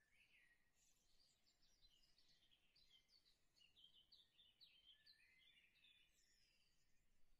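Very faint birdsong: a run of quick, high chirps and twitters.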